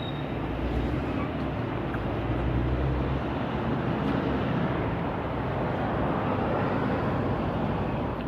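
Steady outdoor motor-vehicle noise: a low engine rumble that swells and eases with a constant hiss over it.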